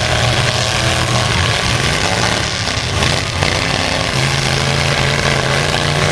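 Several full-size pickup truck engines running and revving at once in a demolition derby, a continuous loud engine noise.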